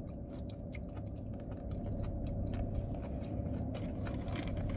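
Close-up chewing and crunching of fried chicken gizzards and livers, with scattered small clicks and rustles as fingers pick food from a paper takeout box. A steady low hum of the car cabin runs underneath.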